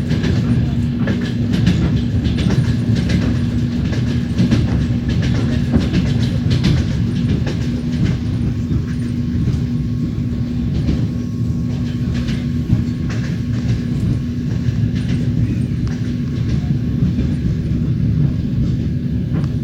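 Train wheels rumbling and clattering over the rails, heard from aboard the moving train, with a steady low hum underneath.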